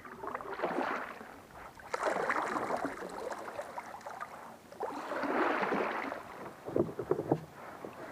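Kayak paddle strokes through the water: several swishing splashes a couple of seconds apart, with water dripping off the blades.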